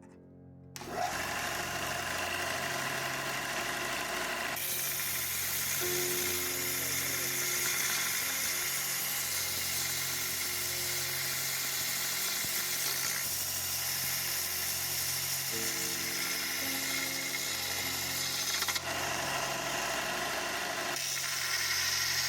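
Power grinder grinding steel: a steady harsh hiss that starts about a second in and changes tone a few times as the knife's tang is ground down to remove a leftover stump. Soft background music with low notes plays underneath.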